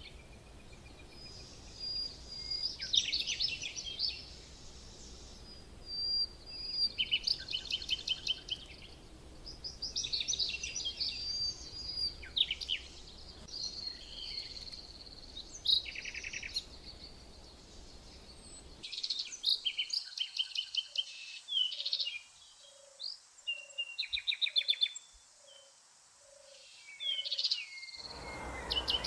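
Several songbirds chirping and singing, with quick trills and short whistled notes from different birds overlapping. In the second half the steady background hiss falls away for about nine seconds while a soft low note repeats about once a second.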